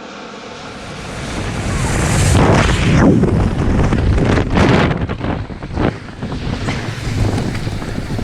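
Loud wind buffeting the microphone. It builds over the first two seconds, then surges several times.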